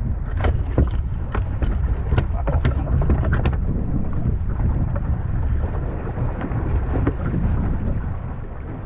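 Steady low rumble of wind on the microphone and a small boat under way in rough water, with a quick run of sharp knocks and clatters through the first three and a half seconds.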